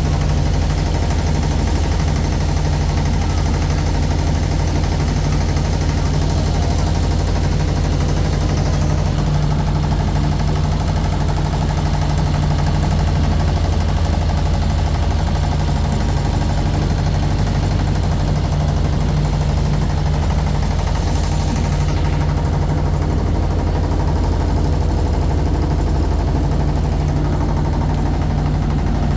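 Boat engine running steadily at an even pitch, heard from aboard the boat.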